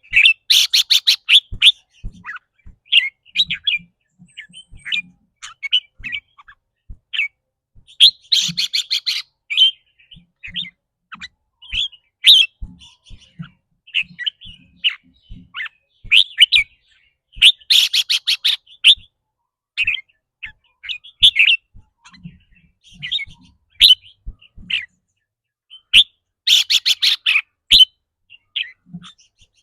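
Red-whiskered bulbul calling over and over with short sharp chirps. Four times, near the start and then about every nine seconds, it breaks into a harsh, rapid rattling 'rik' call lasting a second or so.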